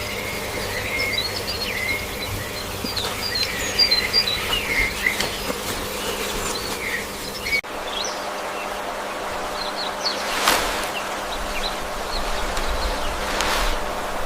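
Small birds chirping in quick short notes over a steady insect-like buzz, with an abrupt change about halfway through where the chirping thins out to a steady hiss and a few brief sharp sounds.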